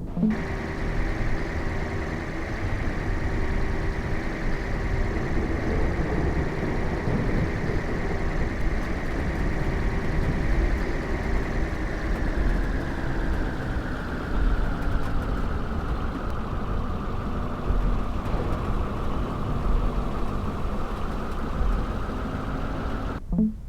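A car driving, with steady engine and road rumble and a whine that drops in pitch about halfway through as the car slows.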